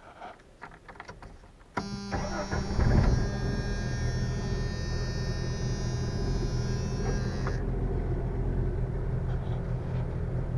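1994 Jeep Wrangler YJ engine started on a newly replaced starter: about two seconds in the starter cranks briskly for under a second, then the engine catches and settles into a steady idle. A high steady whine runs over it for several seconds. The brisk crank is the sign that the new starter has cured the slow cranking of the worn-out old one.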